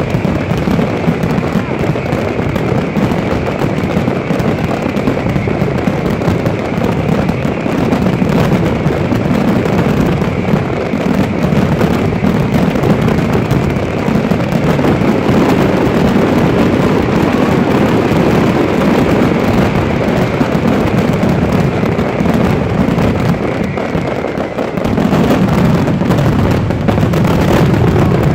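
Large fireworks display heard close up: a dense, continuous barrage of overlapping firework explosions, with no gaps between the bangs.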